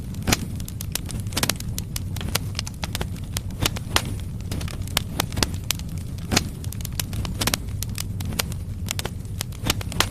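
Firewood logs burning in a fireplace, crackling with irregular sharp pops several times a second over a steady low rumble of the flames.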